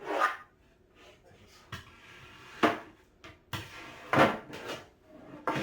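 Irregular knocks and clunks with scraping and rubbing between them: cat tower parts being handled and fitted together during assembly, starting with the base plate.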